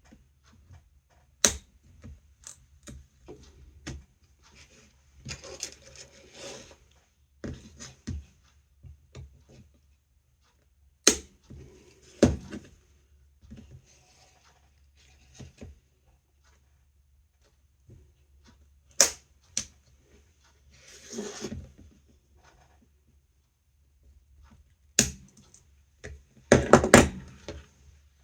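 Hand work on a silicone-potted circuit board and its plastic housing as the board is cut and pried loose: scattered sharp clicks and knocks, a few stretches of scraping and rubbing, and a cluster of louder knocks near the end.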